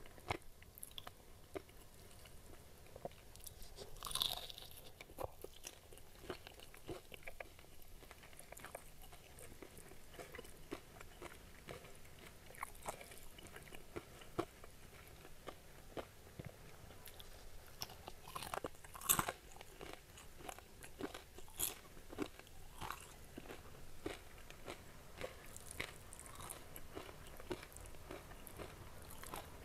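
Close-miked eating sounds: crunchy bites and chewing of crispy battered fried chicken, with scattered sharp crackles throughout. The loudest crunches come about four seconds in and again about two-thirds of the way through.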